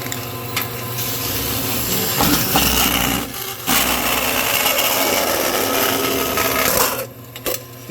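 Metal of an empty aerosol paint can being cut open: a continuous rasping, scraping cut with a short break about three and a half seconds in, easing off near the end as the can comes apart.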